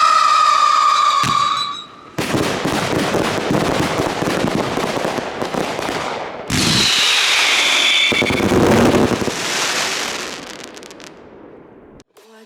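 Fireworks going off: a loud whistling scream that falls slightly in pitch and stops about two seconds in, then several seconds of dense crackling and popping, a second falling whistle about seven seconds in, and the noise dying away near the end.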